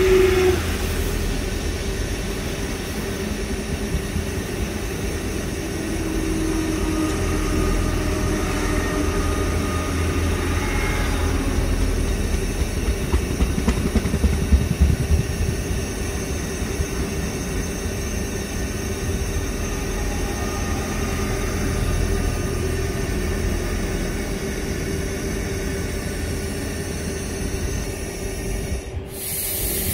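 A Z2N double-deck electric multiple unit passing close by on the track beside the platform: a steady rumble of wheels on rail under a constant hum, with a spell of louder wheel clatter about halfway through. The sound breaks off abruptly just before the end.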